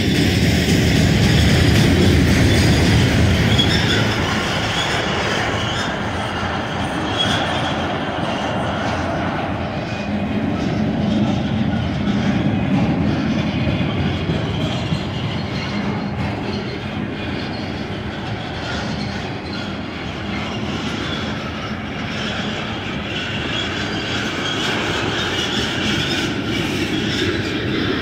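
Freight train cars, autoracks and then loaded flatcars, rolling past. Wheels on the rails give a steady rumble and rattle, loudest in the first few seconds, with some high wheel squeal at times.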